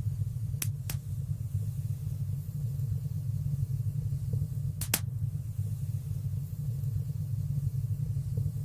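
Wood fire burning in a fireplace: a steady low rumble of flames with sharp crackling pops, two close together about half a second in and another near the middle.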